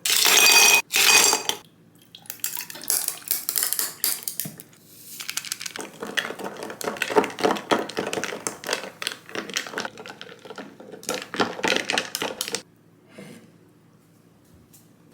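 Kitchen clatter of dishes and metal utensils: two short loud scraping bursts at the start, then a long stretch of rapid clinking and scraping that stops about two seconds before the end.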